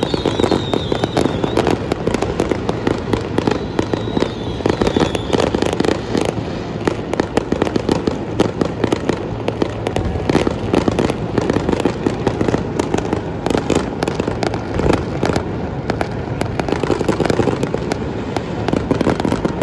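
Many fireworks and firecrackers going off at once across a city: a dense, unbroken crackling and popping with frequent sharp bangs.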